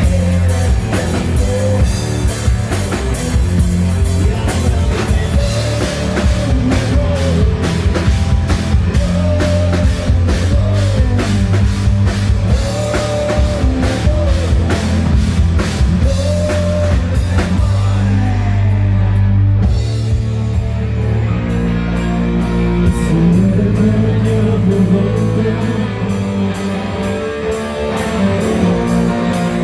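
Melodic hard rock band playing loudly, with drums, guitar, bass and a sung melody. About eighteen seconds in the drums drop out for a moment, then the full band comes back in.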